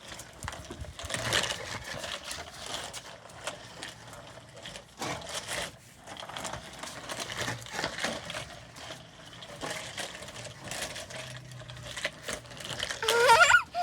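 Plastic toy tractors clattering and rattling as they are handled and knocked together: a run of quick, irregular clicks and knocks. A high, wavering cry comes near the end.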